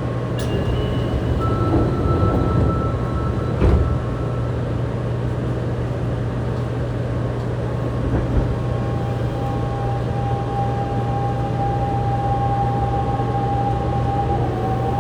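Fukuoka City Subway 2000-series train with a Hitachi GTO-VVVF inverter, standing with a steady low hum, a knock about four seconds in as the doors shut, then pulling away: about halfway through, the inverter's steady whine starts and begins to rise in pitch near the end.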